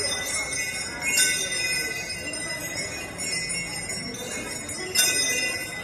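Metal bells ringing steadily with a jangling shimmer, struck more sharply about a second in and again near the end.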